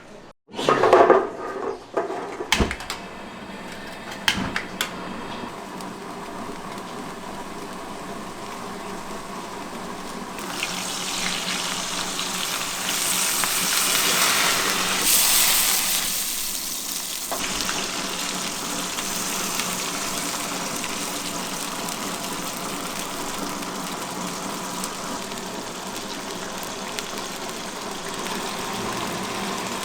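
Small pond smelt frying in a pan of hot oil, a steady sizzling hiss that swells about ten seconds in and then settles, with a few clatters of kitchen utensils near the start.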